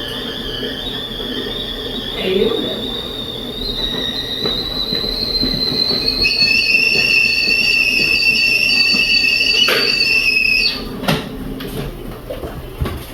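Tea kettle whistling at the boil, its whistle slowly rising in pitch. About halfway through it turns louder and two-toned, then cuts off abruptly, followed by a few clicks and knocks.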